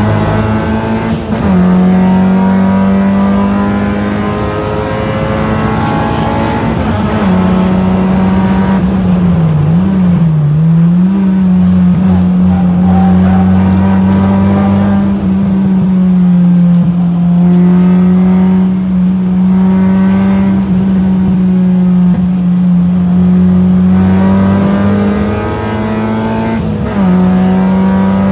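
Honda Civic hatchback's engine running hard at high revs on a race track, heard from inside the cabin. Its pitch holds mostly steady, with a few short dips, the deepest about ten seconds in.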